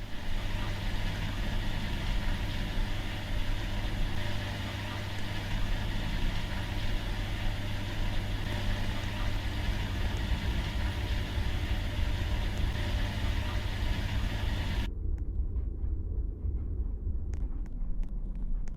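Washing machine running: a steady motor hum with a churning rush over it. About three-quarters of the way through, the higher part of the sound drops away abruptly, leaving the low hum and a few faint clicks.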